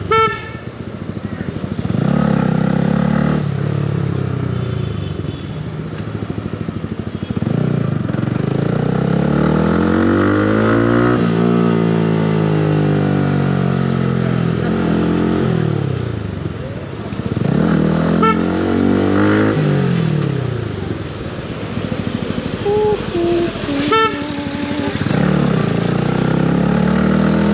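Yamaha R15 V3's 155 cc single-cylinder engine through an aftermarket exhaust, revving up and falling back again and again while riding, with the exhaust booming on engine braking. Short vehicle horn toots sound a few times.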